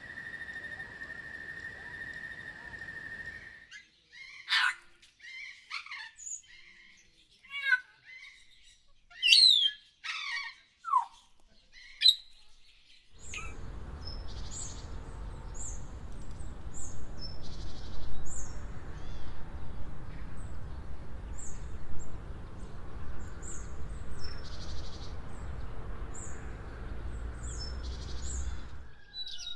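Bird calls from several recordings spliced together. First a steady held tone, then a run of sharp sweeping calls. From about a third of the way in, short high chirps come roughly once a second over a low rumble.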